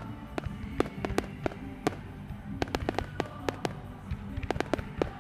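Fireworks bursting in a quick, irregular series of sharp bangs and crackles, over music.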